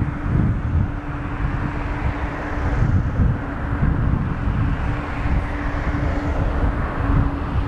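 Boeing 777-200 jet engines idling after pushback: a steady hiss with a steady hum, close to taxi. Strong gusts of wind buffet the microphone.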